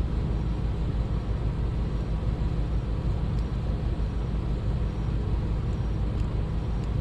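Steady low mechanical rumble, even in level throughout, with a couple of faint light ticks near the end.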